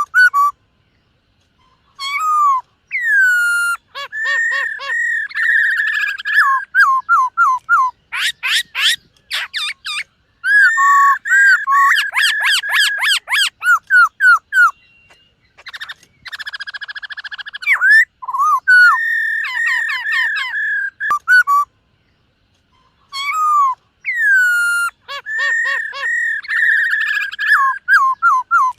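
Black-throated laughingthrush singing loudly in bouts of clear whistled phrases with sliding notes and rapid trills, separated by short pauses.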